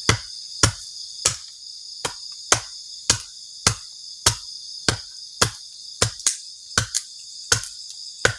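Crickets chirping steadily, with a regular series of sharp knocks about one and a half times a second over them, the knocks being the loudest sound.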